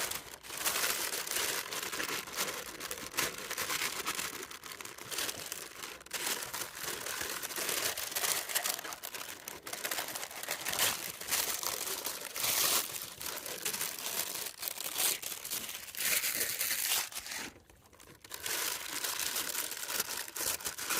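Parchment paper crinkling and rustling as it is handled, folded and pressed in to line the bottom of a cast iron Dutch oven, with a brief lull near the end.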